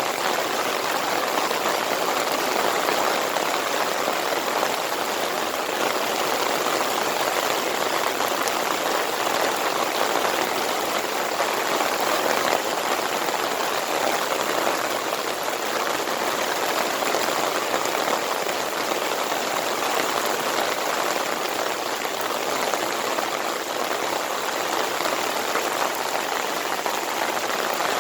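Monsoon rain pouring steadily: a dense, even hiss of falling drops with no let-up.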